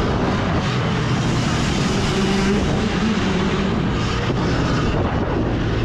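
Dirt bike riding a motocross track: steady motor noise with wind rushing over the rider's microphone.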